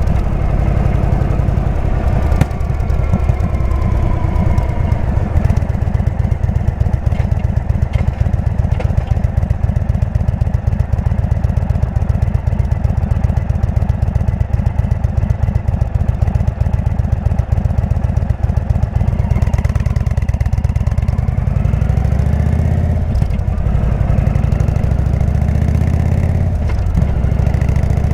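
Indian V-twin motorcycle engine through a Jekill & Hyde exhaust, running with a dense low pulse while riding. The pitch falls in the first few seconds, and the revs rise and drop again a few times in the last third.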